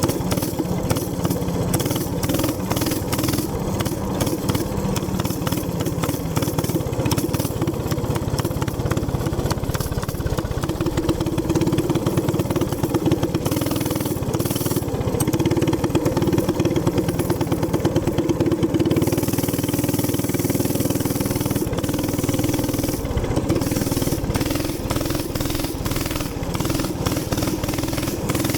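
Gas minibike's small engine running steadily under way, its pitch easing and swelling a little with the throttle.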